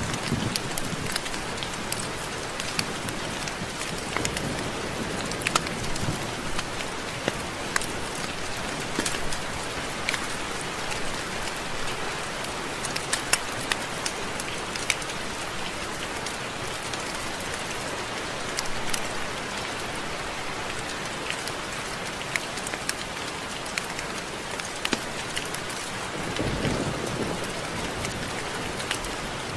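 Steady rain: an even hiss with many individual drops ticking sharply. A low rumble swells and fades near the end.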